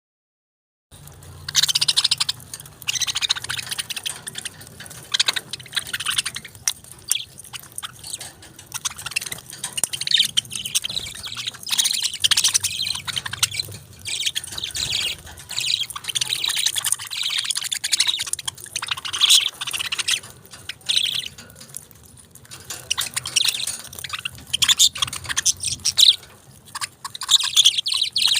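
Budgerigars chirping and chattering without pause, many quick high chirps running together, starting about a second in.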